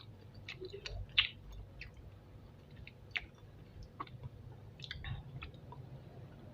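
Close-miked chewing and gnawing on spicy chicken feet, with short wet clicks and smacks of mouth and teeth coming at irregular intervals.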